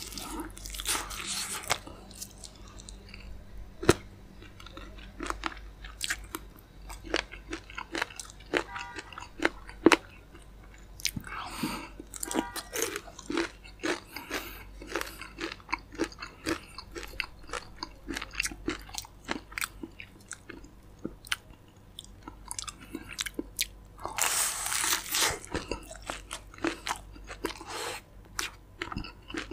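Close-up chewing and crunching of crispy fried chicken, a dense run of wet clicks and crackles, with louder crunchy bites about a second in, around eleven to thirteen seconds, and again around twenty-four to twenty-six seconds.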